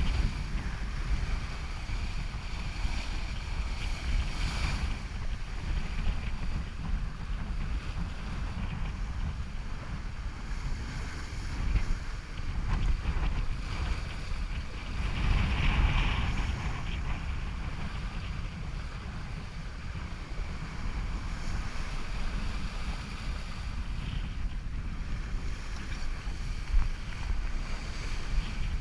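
Wind buffeting the microphone over water rushing past a sailboat's hull under way, with surges of louder wash about four seconds in and again about fifteen seconds in.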